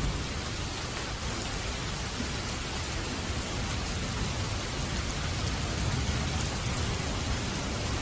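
Steady rain, a dense even hiss of drops falling on surfaces, with a low rumble underneath.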